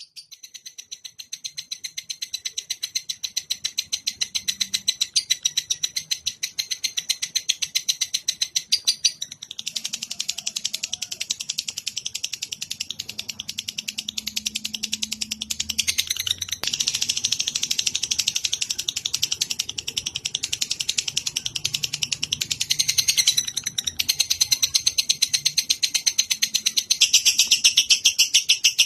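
Recorded songbird song used as training audio for cage birds: a fast, unbroken stream of high chattering notes that changes its pattern several times.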